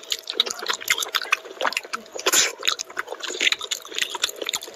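Close-miked wet chewing and lip-smacking of a person eating curry and rice by hand, a dense run of quick smacks and squelches with a louder mouthful a little after two seconds.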